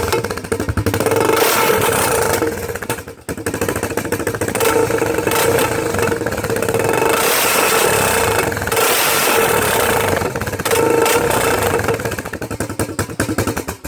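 Honda Recon 250 ATV's single-cylinder four-stroke engine running loud through a DG aftermarket exhaust with its sound-deadening packing removed, the throttle easing off briefly about three seconds in and again near the end.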